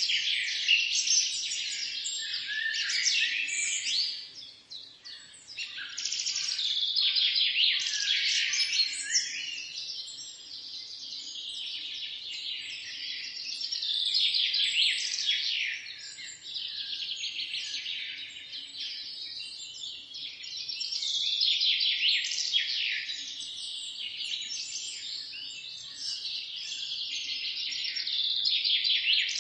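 Birds chirping, a dense run of rapid high chirps and tweets that overlap without a break, dropping back briefly about four seconds in.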